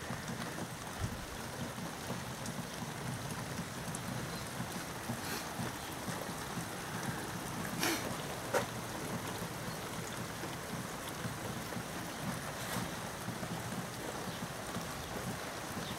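Steady heavy rain falling, with a few sharp taps, two louder ones close together about halfway through.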